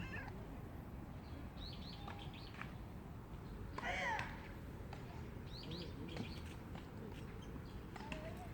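Small birds chirping in short high phrases at intervals, with one louder, longer call about four seconds in, over a steady outdoor background hum.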